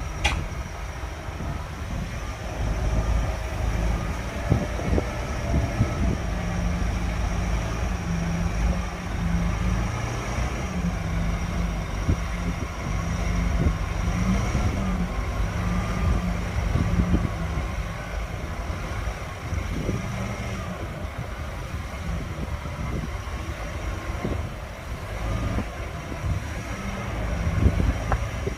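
Komatsu D60-P crawler bulldozer's diesel engine running steadily under load, with irregular knocks and clanks from its steel tracks and a steady high whine.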